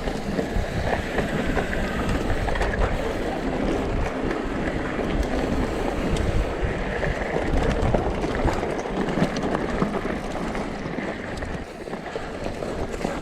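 Wind buffeting the microphone of a downhill mountain bike riding down a dirt trail, with tyres rolling over the ground and the bike rattling over bumps in many small knocks.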